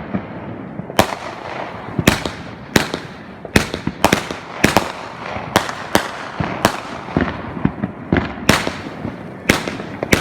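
Fireworks going off in a rapid string of sharp bangs, about one to two a second, with noise filling the gaps between them.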